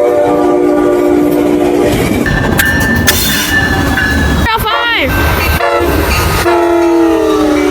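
A locomotive's multi-chime air horn sounding a chord, cutting off about two seconds in as the passing train's rail and wheel noise takes over. A brief sharp falling whine comes midway, and the horn sounds again in short blasts near the end.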